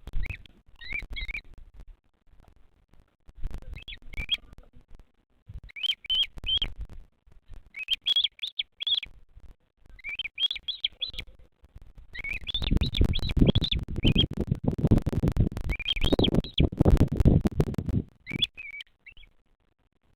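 Bearded vulture chick calling in short bouts of quick high chirps, a bout every second or two. From about twelve seconds in, a loud low rumbling noise runs under the calls for some six seconds.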